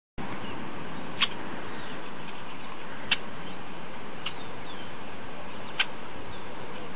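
Four short, high chirps, one to two seconds apart, over a steady background hiss.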